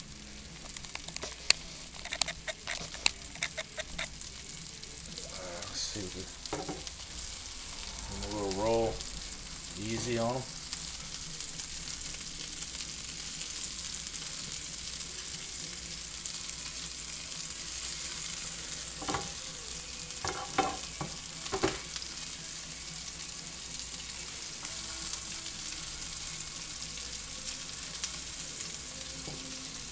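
Meatballs sizzling in hot oil in an electric skillet, a steady frying hiss, with sharp clicks of metal tongs against the pan in the first few seconds as the meatballs are turned.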